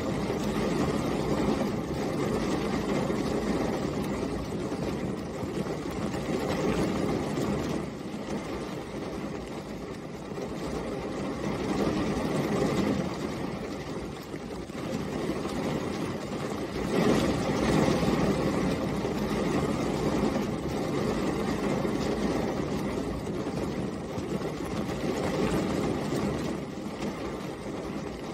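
Steady continuous rain: a dense, even rush with a low rumble in it, swelling and easing every few seconds and loudest about seventeen seconds in.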